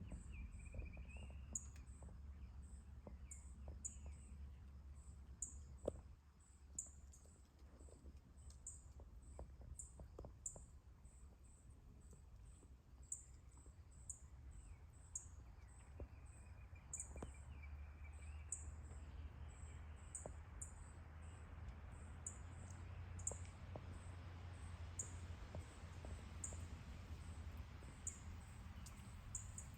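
Faint outdoor ambience: a very high, thin chirp repeats about once a second, and short trilled bird calls come twice, about a second in and again around the middle, over a low steady hum and a few light clicks.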